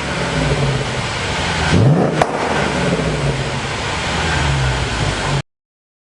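Land Rover Discovery 4's engine through a valved aftermarket exhaust, revved in a quick blip about two seconds in that then falls away slowly. The sound cuts off abruptly near the end.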